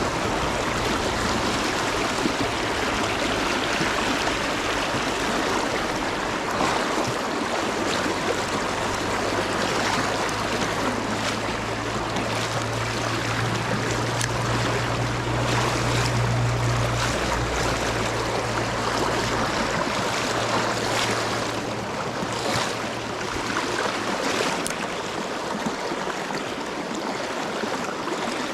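Stream water rushing steadily, from a creek running high after a flash flood. Under it a low steady hum swells in the middle and fades out about three-quarters of the way through.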